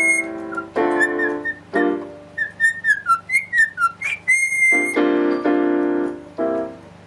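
Cockatiel whistling a tune of short, quick up-and-down notes, with one long held whistle a little past four seconds. Piano chords are struck under it, three in the first two seconds and three more between about five and six and a half seconds.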